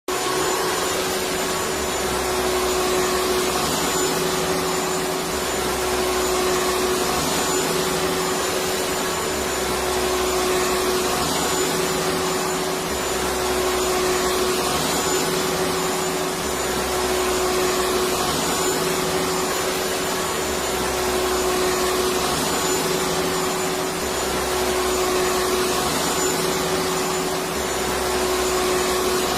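Electric vacuum cleaner running continuously: a steady motor noise with an even hum and a faint low pulsing every few seconds.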